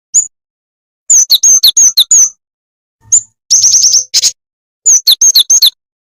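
Jingjing bird song from a lure recording: loud, sharp high chirps, many slurring downward, in three quick groups of four to six notes with short silences between, the middle group a fast run of notes.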